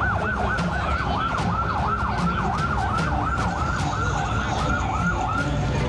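Fire engine siren yelping: a fast rising-and-falling wail, about three or four sweeps a second, fading out near the end, over a steady low rumble.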